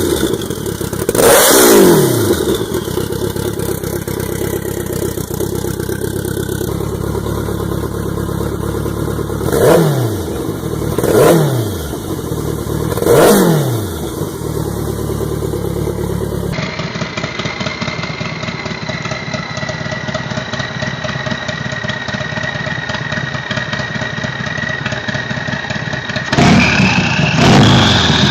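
Turbocharged custom motorcycle engine revved in sharp blips that drop back to a lumpy idle, four times. Then another engine idles with a high whine that slowly sinks, and revs near the end as a high tone rises with it.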